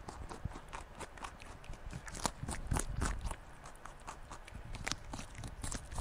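Hare cropping and chewing grass: a rapid, uneven run of crisp crunching bites, loudest around the middle.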